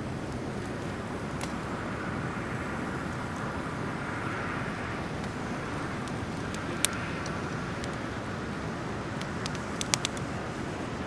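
Driftwood fire crackling in a fire pit. Sharp pops come about a second and a half in, near seven seconds, and as a quick cluster of three or four near the end, over a steady rushing background noise.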